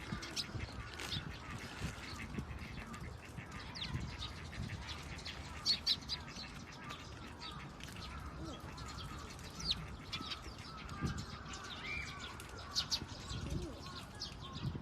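A flock of birds calling, with many short, sharp high chirps scattered throughout, along with wing flaps and low thuds.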